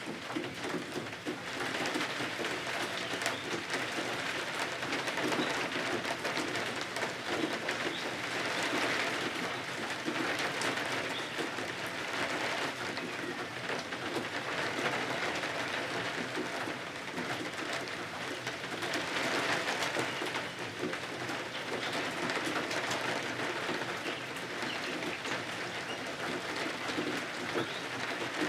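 Steady rain falling, a dense patter of fine drops that swells and eases every few seconds.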